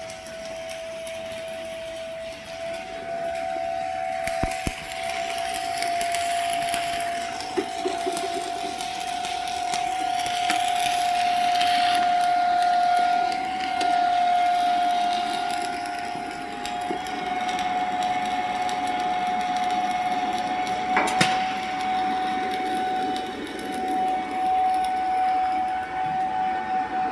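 Arc welding: the arc crackles and sizzles unevenly, swelling and easing, over a steady high-pitched whine, with a sharp crack about two thirds of the way through.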